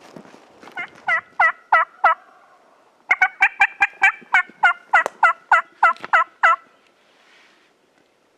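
Turkey yelping: a short run of about five yelps, then after a brief pause a longer, faster run of about a dozen.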